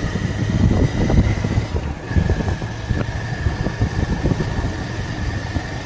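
Motorcycle on the move, with wind buffeting the microphone over the running engine and road noise, and a steady thin high whine.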